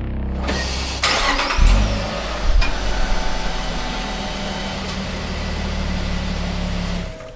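2022 Lexus LX 600's twin-turbo V6 starting up: the engine catches about a second and a half in, then settles into a steady idle. The sound drops away suddenly near the end.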